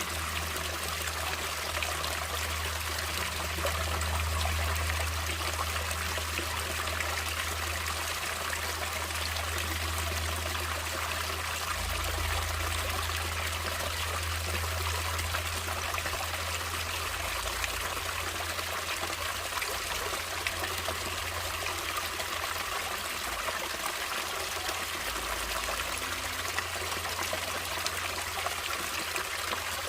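Steady trickling and rushing of flowing water, as of a stream, with a low rumble underneath that is stronger in the first half and eases off about twelve seconds in.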